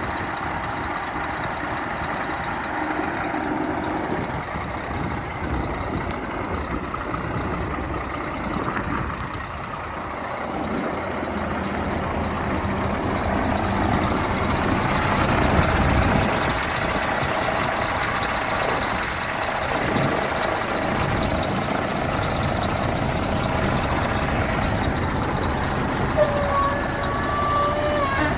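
Scania P380 tank truck's diesel engine running, growing louder about halfway through, with a short steady tone near the end.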